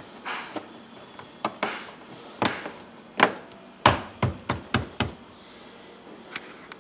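A series of about a dozen irregular taps, knocks and clicks, with a quick run of them about two-thirds of the way in. They come from parts and tools being handled during work on the car's interior.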